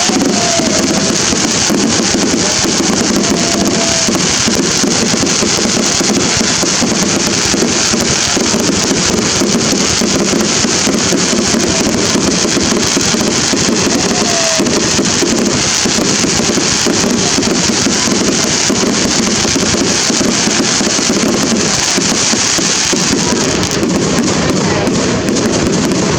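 A fireworks display going off without a break: a dense, steady mass of crackling and banging. A few short whistles are heard near the start and about halfway through.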